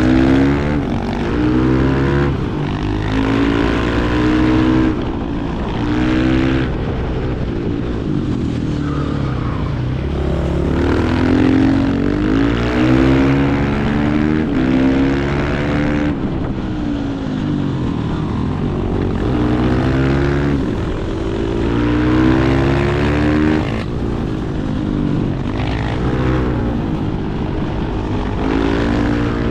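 Supermoto motorcycle engines revving hard. The pitch climbs and drops again and again as the bikes accelerate, shift gears and roll off the throttle.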